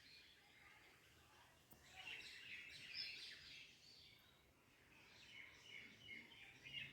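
Faint bird chirping in short, irregular calls, strongest a couple of seconds in and again near the end.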